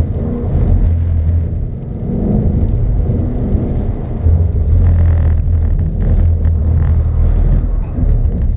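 2015 Ford Mustang GT's 5.0-litre V8 heard from inside the cabin, driving hard through an autocross course with the engine note swelling and easing as the throttle comes on and off. It gets louder from about four seconds in.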